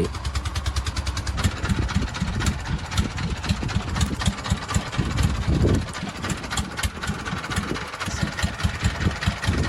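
Fishing boat's engine idling, with a fast, even knocking beat over a low hum.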